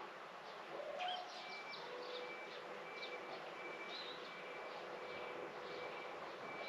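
Small birds chirping at scattered moments over a faraway vehicle's reversing beeper, which pips evenly about every 0.7 s, and a steady low hum that starts about two seconds in.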